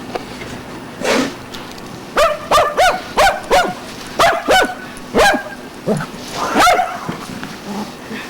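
A dog barking: about ten short, sharp barks in quick succession, starting about two seconds in.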